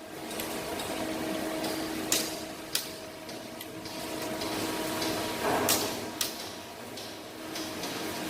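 Sharp metallic clicks and knocks of hand tools and parts being handled during engine assembly, a few scattered strikes, over a steady machine hum.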